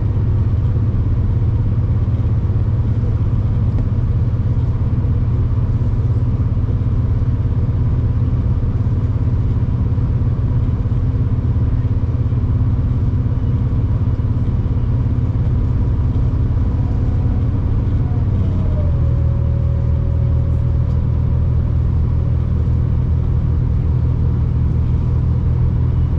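Steady low rumble of a V/Line diesel passenger train running on the line, heard from inside a carriage. About two-thirds of the way through the engine note drops a little and a faint tone slides down in pitch.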